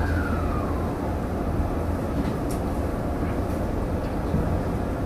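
Electric commuter train running, heard from the driver's cab: steady rumble of wheels on rail with a low hum, and a motor whine falling in pitch during the first second.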